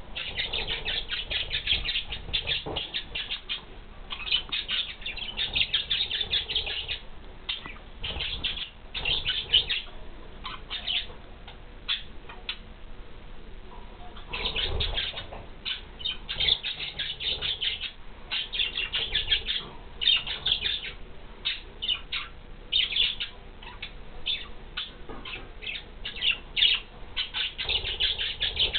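Budgies chattering: fast runs of short, high chirps in bursts with brief pauses between them.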